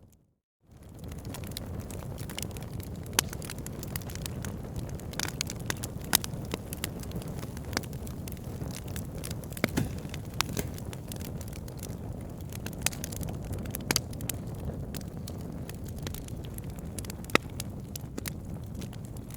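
Wood fire burning: a steady low rush of flame with irregular crackles and sharp pops from the logs, a few pops louder than the rest. The sound cuts out for about half a second at the start and fades back in.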